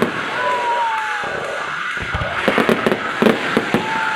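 Fireworks display: a thin whistle falling slightly in pitch near the start, then a rapid cluster of bangs and crackles about two seconds in.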